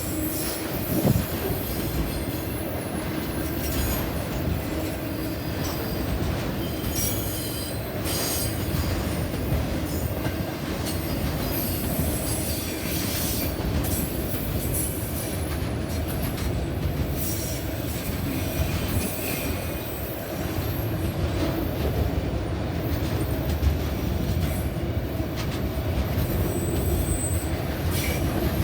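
Train rolling past on the rails: a steady rumble of wheels and cars, with scattered clanks and brief high-pitched wheel squeals.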